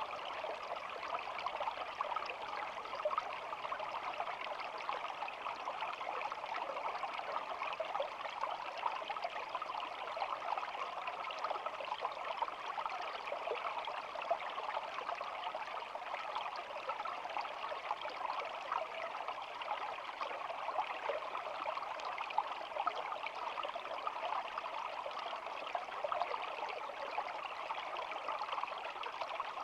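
Shallow stream flowing steadily over stones, a continuous babbling and trickling of water with no pauses.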